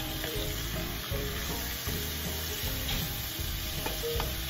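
Chicken, potatoes, carrots and bell peppers sizzling in a nonstick frying pan while a wooden spatula stirs them, with a few light knocks and scrapes of the spatula against the pan.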